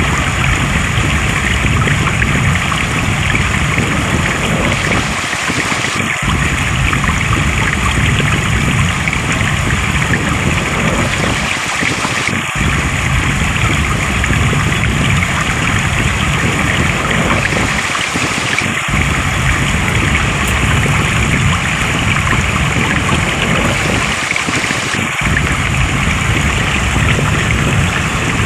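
Flowing water running steadily. The low part of the sound drops out briefly about every six seconds, as in a looped recording.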